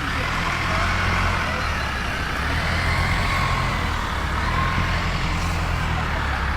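A vehicle engine running steadily: a low, even drone with a faint higher whine that slowly wavers in pitch.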